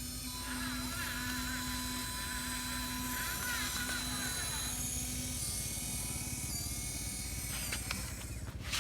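Small electric motor whining steadily, as of a radio-controlled truck's drive or hydraulic motor, its tone pulsing on and off and fading out about halfway through.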